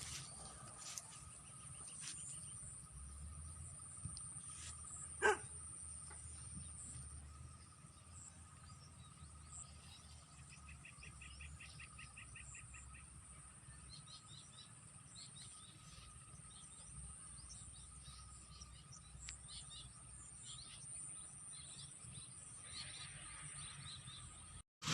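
Outdoor ambience: scattered bird chirps and a short rapid trill over a steady high-pitched insect drone, with one sharp click about five seconds in.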